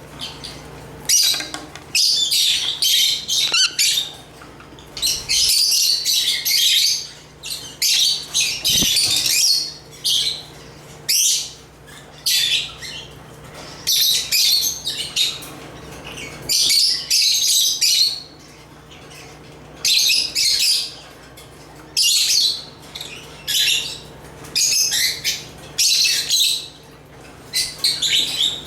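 African lovebirds (Agapornis) chirping and chattering in repeated high, shrill bouts that break off every second or two.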